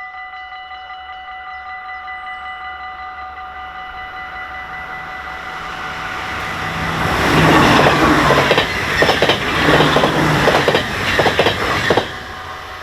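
Dutch level-crossing warning bells ringing steadily while a train approaches and passes, its wheels clattering over the rail joints. The passing train is loudest from about seven seconds in and cuts off suddenly near the end, leaving the bells ringing.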